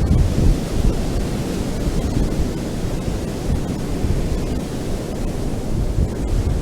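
Ocean surf breaking and washing on a beach: a steady, dense rush of waves, heaviest in the low end, with no distinct single break.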